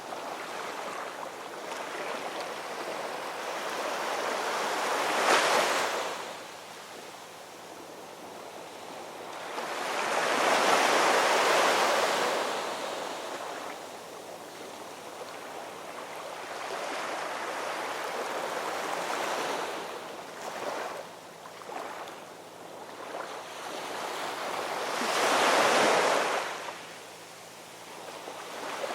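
Ocean waves washing in and drawing back, the surf swelling to a loud rush every several seconds and falling away between, with the biggest surges about five, eleven and twenty-five seconds in.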